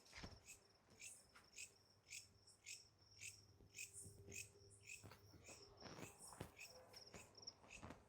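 Faint night insects, crickets, calling: a steady high trill with sharp clicking chirps a few times a second, irregularly spaced.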